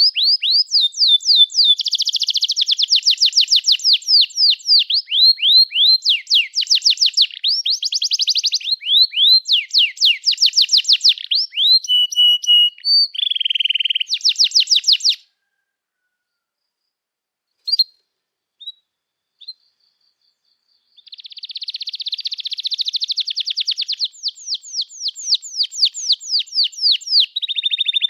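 Domestic canary singing long rolling trills of rapid repeated notes. The song breaks off about halfway through, gives a few lone chirps, and starts trilling again after about six seconds.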